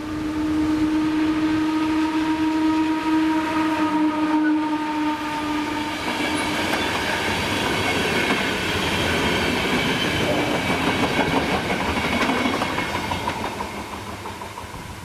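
A passenger train's horn sounds one steady, held tone for about six seconds. Then the train passes close by with loud wheel-on-rail noise and rapid clicking that tails off near the end.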